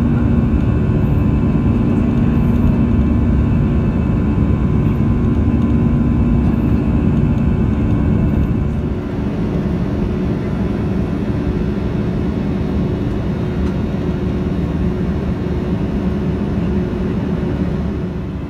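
Steady jet-engine and airflow noise of an Airbus A340-300 with CFM56 engines, heard from inside the cabin, with a constant hum under the rush. It drops a little in level about halfway through.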